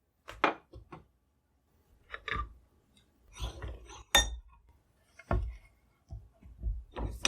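Metal tools being handled, clinking and knocking in a string of separate taps with short gaps, one sharper clink with a brief high ring about four seconds in.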